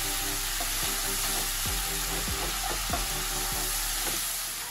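Spice paste of ginger, turmeric and cumin frying and sizzling in mustard oil in a non-stick kadai, a little water just added so the masala is being cooked down. A wooden spatula stirs and scrapes it around the pan in repeated strokes.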